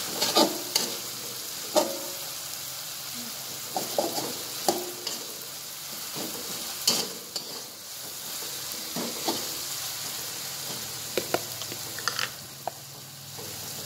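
Chopped tomato, chili, garlic and shallot sizzling steadily in hot oil in a metal wok, with a metal spatula stirring and scraping across the pan in irregular sharp knocks and scrapes that stand out above the sizzle. The ingredients are being fried until soft and cooked through.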